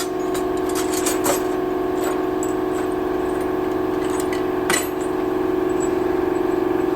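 Metal engine parts clinking a few times as they are handled, the loudest clink almost five seconds in, over a steady machine hum.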